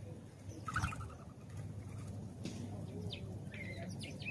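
House sparrows chirping in short, scattered notes, with a quick chattering call about a second in. A steady low hum runs underneath.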